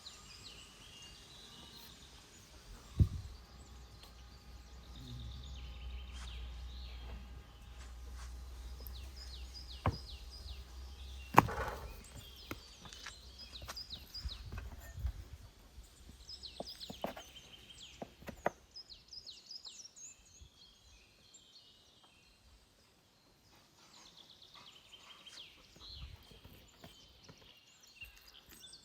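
Birds chirping, with a few sharp knocks and thuds, the loudest about three and eleven seconds in, and a low steady rumble for several seconds in the middle.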